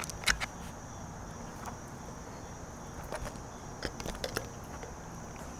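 Insects droning steadily at a high pitch, with a few scattered light clicks and rustles about a quarter second in and again a little past the middle.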